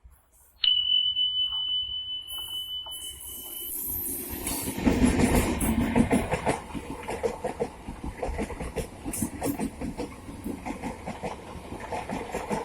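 A long, high single-note whistle sounds for about three seconds, then an electric multiple-unit (EMU) suburban train runs past with its wheels clattering rapidly over the rail joints.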